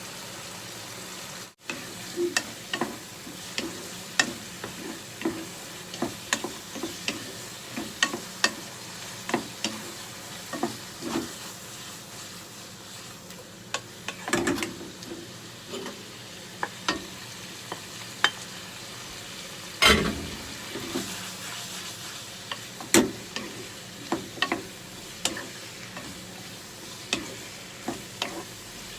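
Chicken with eggplant and bell pepper stir-frying in a pan: a steady sizzle, with a spatula scraping and knocking against the pan about once a second. There is a louder knock about twenty seconds in.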